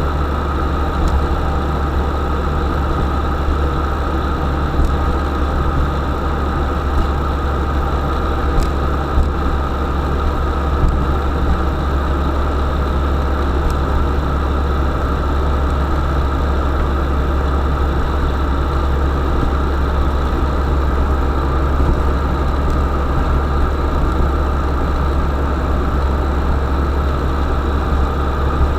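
UAZ Bukhanka van's engine running steadily, a constant low hum with no change in pitch throughout.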